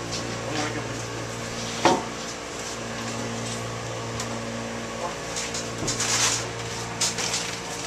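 A steady machine hum runs throughout, with a sharp knock about two seconds in and scattered clattering and handling noises later on.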